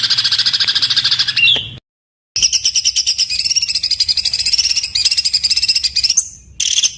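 Songbird singing harsh, very rapid bursts of repeated high notes, the fast 'rough shot' (tembakan kasar) phrases used in masteran tutoring recordings for cage birds. The song cuts off abruptly about two seconds in, resumes half a second later, and breaks again near the end.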